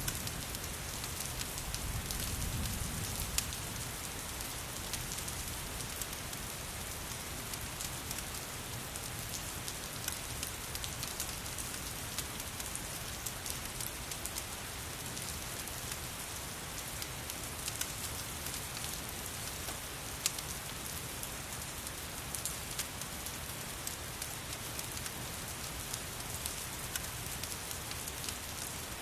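Steady rain falling, mixed with a fireplace, with scattered sharp clicks and crackles throughout. There is a soft low rumble about two seconds in.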